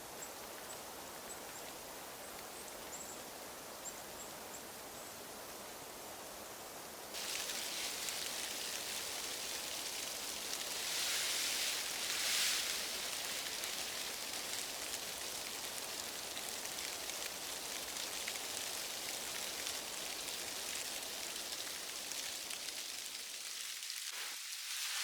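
Steady hiss and patter of heavy snow falling on tent fabric, suddenly louder and brighter about seven seconds in.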